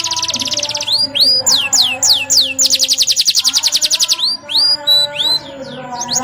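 Domestic canary singing: fast rolled trills of rapidly repeated notes, broken up by sweeping, rising and falling whistled notes. A second trill comes about two and a half seconds in.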